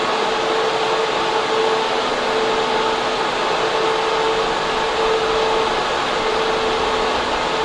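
Server room cooling fans and air-handling running: a steady, loud rushing noise with a constant hum note through it.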